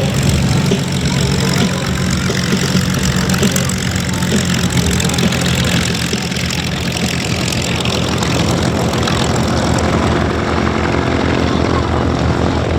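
Curtiss P-40N Warhawk's Allison V-1710 V-12 engine idling steadily on the ground.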